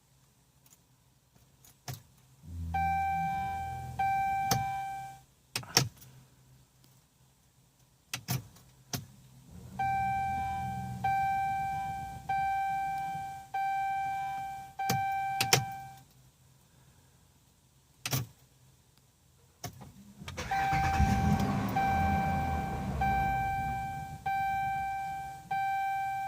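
2013 Dodge Durango R/T's 5.7 L HEMI V8 starting three times, running a few seconds each time and cutting out abruptly, with a dashboard warning chime repeating about once a second while it runs and clicks between the attempts. The engine keeps stalling, a fault the owner traced to the fuel pump relay.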